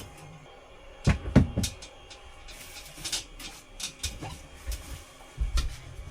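A series of wooden knocks and clunks from wooden ceiling panels and tools being handled during installation. The loudest, a quick cluster of three or four, comes about a second in, followed by scattered lighter knocks and clicks.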